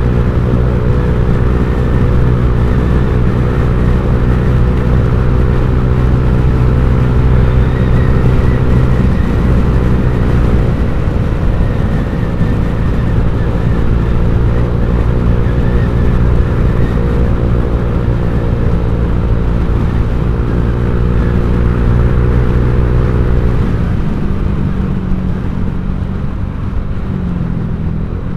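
Honda Vario 150 scooter's single-cylinder engine running through an aftermarket ZRC copy-CMS exhaust, holding a steady pitch, then dropping to a lower pitch about 24 seconds in.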